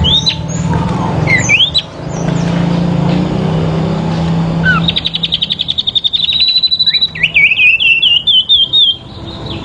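Songbirds singing against each other: quick rising chirps at first, then about halfway a fast high trill, followed by a run of quick repeated notes. A steady low hum runs underneath.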